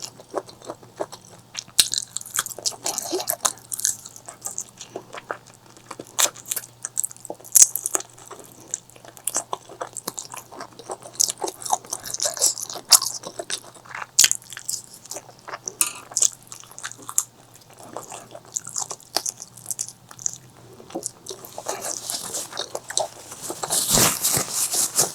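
Close-miked eating sounds: a person biting and chewing food, with many irregular sharp clicks and wet crackles, growing denser and louder near the end.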